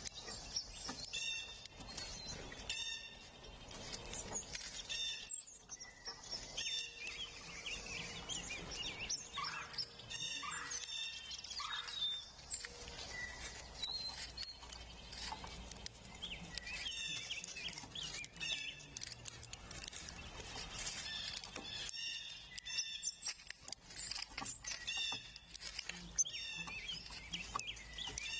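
Several songbirds singing and calling at once, a busy spring chorus of short chirps and song phrases. A few lower, falling whistled notes come about ten seconds in.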